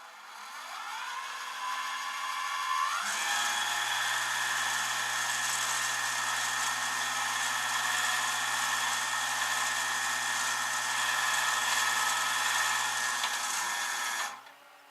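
A power tool motor spinning up, rising in pitch over about three seconds, then running at a steady high whine before cutting off near the end.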